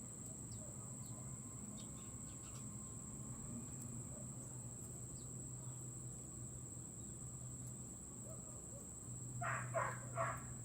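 A steady high insect drone with a few faint chirps, then a bird gives three short, loud, harsh calls in quick succession near the end.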